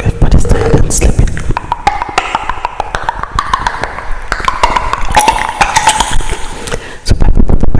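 Close-miked ASMR trigger sounds: a dense, irregular run of clicks and taps right on the microphone, with a wavering high tone through the middle seconds.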